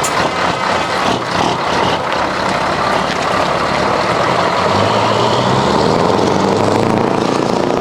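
Heavy truck engines running loudly and steadily, a dense rumble with no horn sounding.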